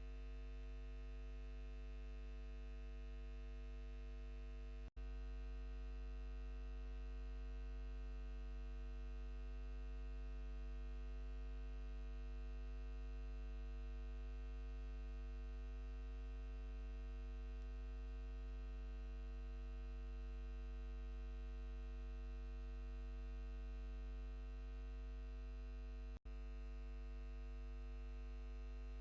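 Steady electrical hum with a stack of even overtones, cutting out for an instant twice.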